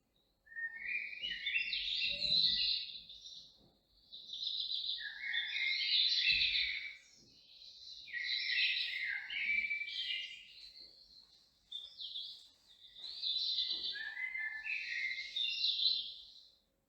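A songbird singing: four long phrases of rapid, varied chirping notes, each a few seconds long, with short pauses between them.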